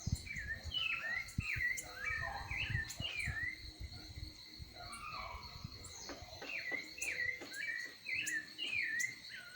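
A small songbird chirping in a quick string of short down-slurred notes, with a steady high insect buzz underneath. Low rumbling knocks run through roughly the first half.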